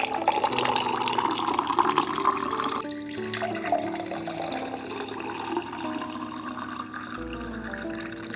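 Water running from a tap into a sink, a steady splashing hiss, over background music.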